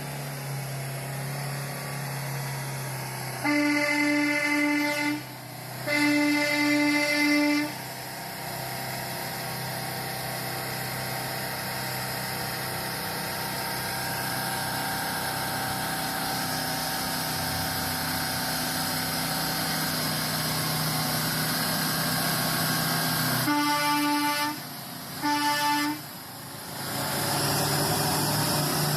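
A heavy truck's air horn sounds two long single-note blasts, then two shorter ones near the end, over the steady drone of a diesel engine running.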